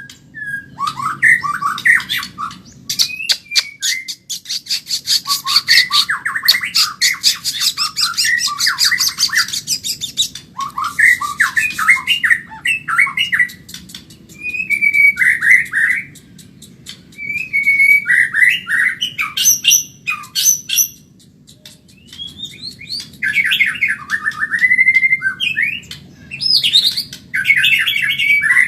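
White-rumped shama (murai batu Medan) singing a fast, varied song in loud phrases with short pauses between them, including a long run of rapid high clicking notes in the first third.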